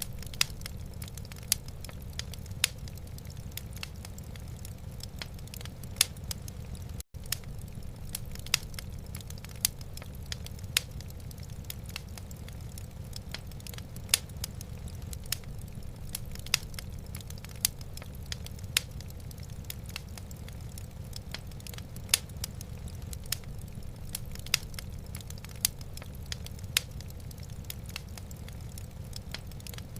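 Wood fire burning in a fireplace, with sharp, irregular crackles and pops over a steady low rumble. The sound cuts out for an instant about seven seconds in.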